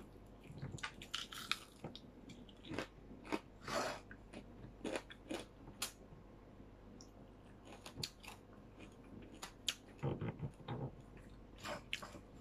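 A person eating fried milkfish and rice by hand, chewing with irregular crunches, clicks and small smacks, a few louder clusters of crunching near the middle and toward the end.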